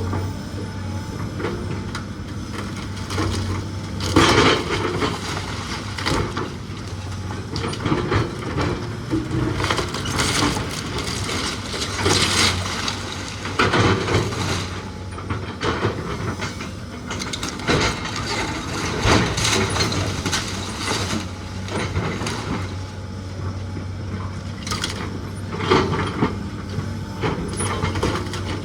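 A heavy machine's engine running steadily while old wooden framing cracks and crunches in irregular bursts as the house is pulled apart.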